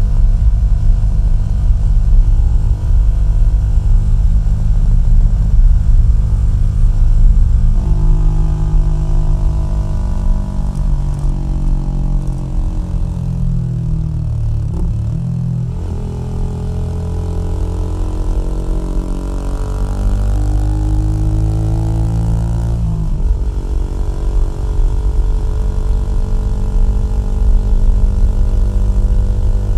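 Low-displacement motorcycle engine and exhaust running under way with a steady low rumble. Midway the engine note drops as the bike slows, then rises again as it picks up speed.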